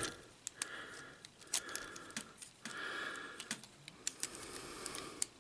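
Plastic toy robot figure being handled during transformation: a scatter of small sharp clicks and light rattling as its jointed parts are lifted, swivelled and snapped into place.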